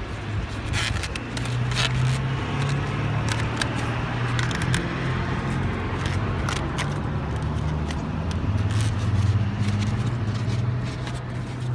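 Inside a van cabin while driving: a steady low drone of engine and road noise, with scattered sharp ticks throughout.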